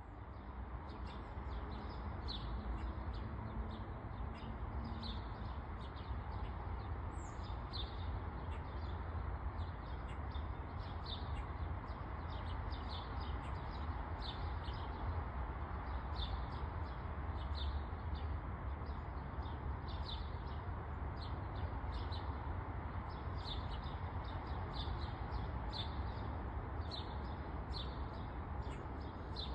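Small birds chirping repeatedly, short high calls about once or twice a second, over a steady rush of outdoor background noise with a low rumble.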